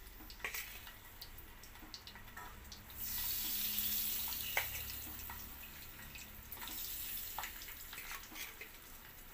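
Boiled potatoes going into hot oil in a wok. A few light clicks of a steel spoon come first, then a loud sizzling hiss starts suddenly about three seconds in and slowly eases off.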